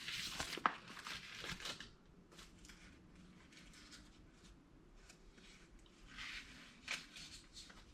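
Faint rustling and light taps of animation cels being handled and laid on an animation disk's pegs, busiest in the first two seconds and again near the end.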